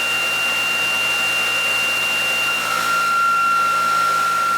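Small prototype electric motor with ReGen-X coils running with a steady high whine. About two and a half seconds in, the whine shifts slightly lower and its upper overtone fades.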